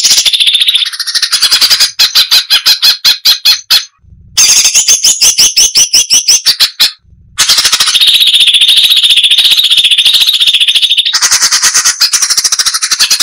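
Crested finchbill (cucak cungkok) singing in fast, dense runs of repeated notes, about eight a second. The song comes in three bursts with short breaks about 4 and 7 seconds in.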